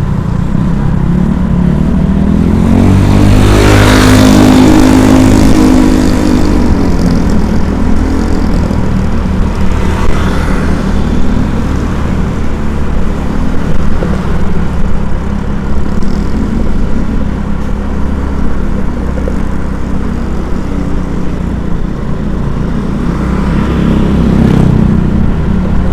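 Steady engine and road noise while travelling along a street, with a vehicle passing close by about four seconds in and fainter passes near ten seconds and near the end.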